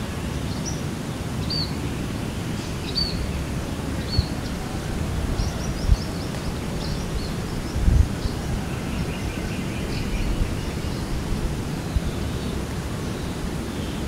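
Small birds chirping now and then, short high chirps with a quick run of notes about five seconds in, over a steady low rumble of outdoor noise with a few soft thumps.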